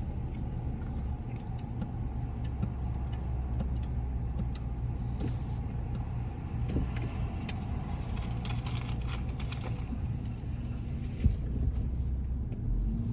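Car engine running steadily with a low hum, with scattered small clicks that bunch up about two-thirds of the way through and one sharp knock near the end.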